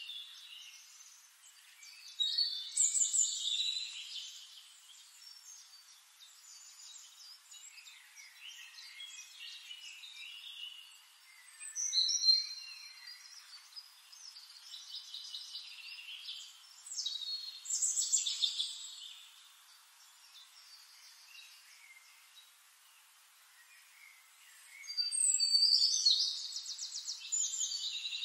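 Small birds singing in short phrases of chirps, quick sweeps and fast trills, coming every few seconds over a faint steady hiss, with no low sounds at all. The longest and loudest phrase is a rapid trill near the end.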